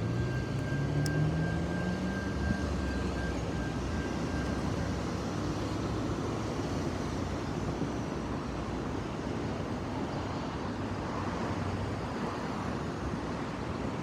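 Train rolling past with a steady rumble, while a low engine tone rises in pitch over the first couple of seconds, like a diesel locomotive throttling up.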